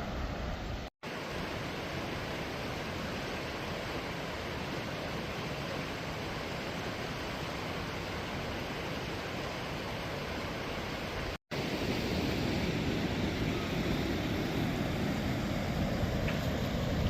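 Steady rush of falling water from a waterfall. It cuts out completely for an instant twice, about a second in and again near two-thirds through, and runs a little louder after the second gap.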